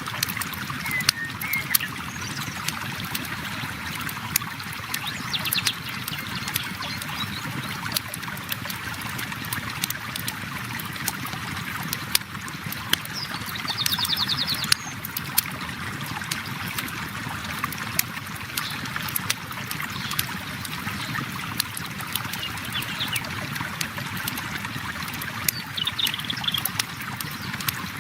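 Flowing river water running steadily, with a campfire crackling and popping throughout. A bird chirps briefly a few times, with a longer trill about halfway through.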